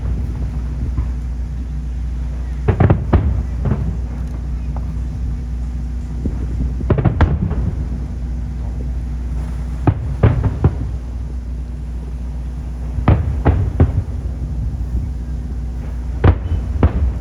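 Aerial fireworks shells bursting in clusters of several quick bangs, a new cluster every three to four seconds, over a steady low rumble.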